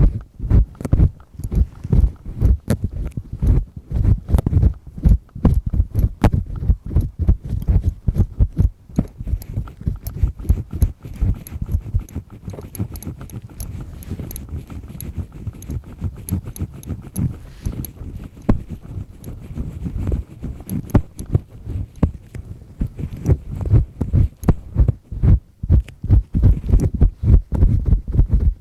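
Double-disc earpick scraping firmly in an ear: dense, irregular scratching strokes with dull low thuds, several a second, lighter for a stretch in the middle.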